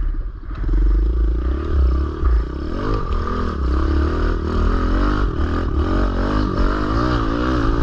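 Kawasaki KLX110L pit bike's small four-stroke single-cylinder engine under load while climbing a rise. From about three seconds in, its note rises and falls again and again as the throttle is worked.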